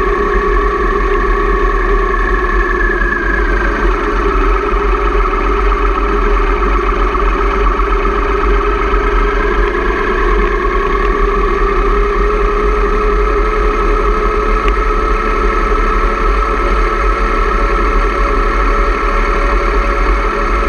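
Motorcycle engine running under way. Its pitch drops a few seconds in and rises again about halfway through as the revs change.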